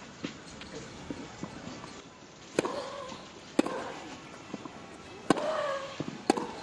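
Tennis rally: a ball struck back and forth with racquets, each stroke a sharp crack, with fainter bounces between. The two loudest strokes each come with a player's short grunt.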